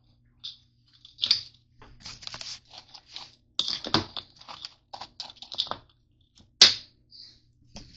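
Crunchy granola bars being crushed and broken up in a bowl: an irregular run of dry cracks and crunches, with one sharp loudest crack about two-thirds of the way through, over a faint steady low hum.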